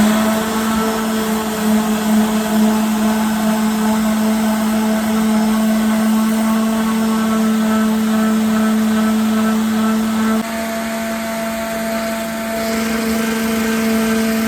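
Electric sander running at a steady pitch on wood. It gets slightly quieter about ten seconds in.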